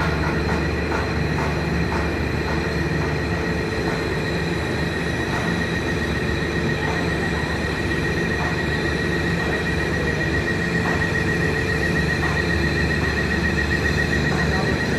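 Steady loud mechanical drone of a docked cargo ferry's machinery, with a low hum under a high, steady whine and a few faint knocks.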